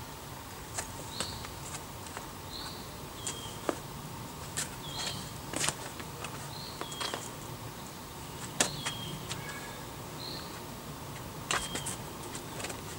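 A bird repeats a short chirp about once every second or so, while sharp taps and scuffs of a climber's hands and rock shoes on the sandstone boulder come irregularly and are the loudest sounds.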